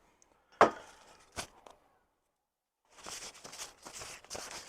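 A sharp knock about half a second in and a lighter click after it, then from about three seconds in a run of short rustling sounds.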